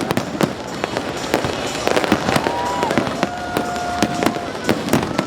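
Aerial fireworks going off in quick succession: a dense run of sharp bangs and crackles, with a short held whistle-like tone about two and a half seconds in and a longer one from about three to four and a half seconds.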